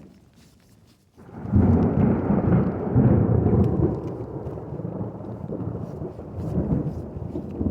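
Thunder from a lightning storm overhead: after about a second of quiet, a sudden loud, deep rumble breaks in and rolls on in pulsing waves.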